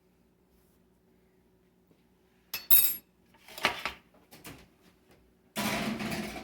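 Kitchen handling clatter of a metal cookie sheet and oven: a loud sharp clank about two and a half seconds in, a rougher clatter a second later, a few light knocks, then about a second of steady scraping or rushing noise near the end.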